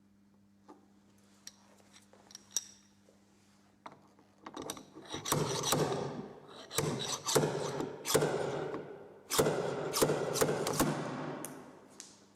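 Dent-repair hand tools being worked: a few light clicks, then about seven seconds of rasping, scraping noise broken by several sharp clicks.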